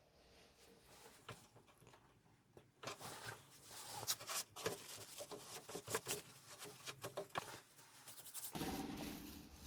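Irregular scratching and rubbing with light clicks and taps, hand work on the wood of an old cabinet. It starts about three seconds in, and a low rumble joins near the end.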